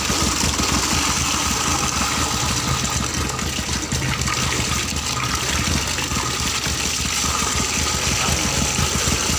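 Small petrol engine running steadily, driving a water pump, with water gushing.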